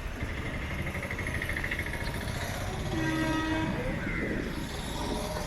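Railway station sounds with a train, a steady rumble throughout. About three seconds in, a short steady horn note sounds, lasting under a second.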